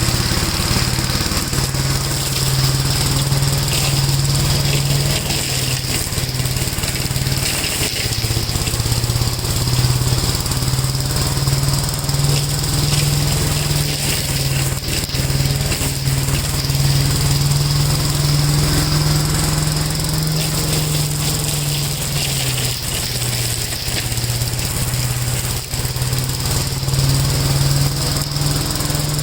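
1969 Gravely L walk-behind tractor's engine running steadily under its own power.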